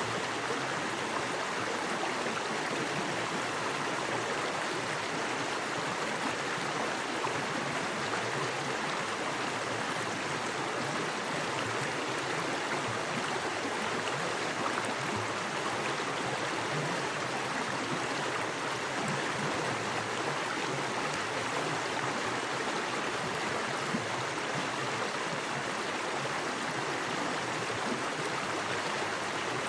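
Small forest creek running fast over rocks: a steady, even rush of water with a gurgling texture.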